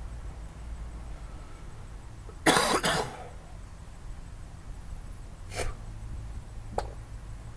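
A person coughing: one loud double cough about two and a half seconds in, then a fainter short sound and a sharp click a few seconds later, over a low steady hum.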